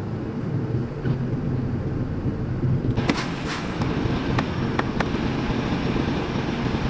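Semi-truck engine running steadily, heard from inside the cab. About three seconds in there is a brief hiss, followed by a few sharp clicks.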